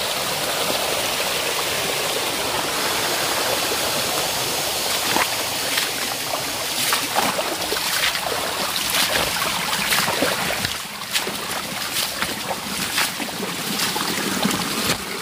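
Forest stream water running steadily, with a run of short sharp clicks and knocks starting about five seconds in and repeating irregularly to the end.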